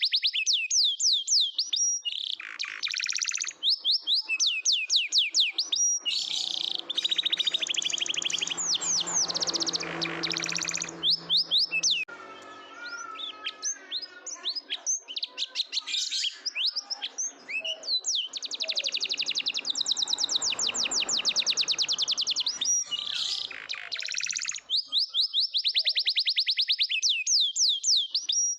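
Domestic canary singing a long, continuous song of very fast, high trills and rolls. Near the middle it breaks into a slower, lower warbling passage, then returns to the fast high trills.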